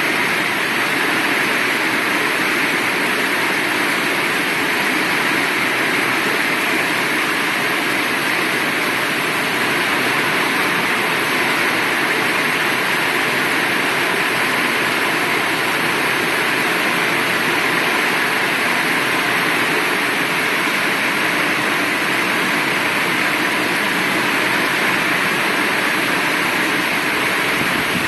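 Heavy rain falling steadily, an even wash of sound with no breaks.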